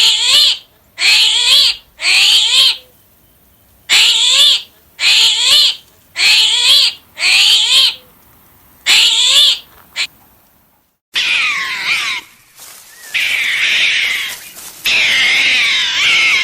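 An animal calling over and over, short high calls about once a second with pauses, then a different, more continuous run of calls takes over about eleven seconds in.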